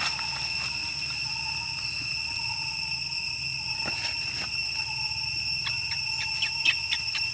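A steady, high-pitched insect chorus that holds one even tone, with a few faint clicks about four seconds in and several more near the end.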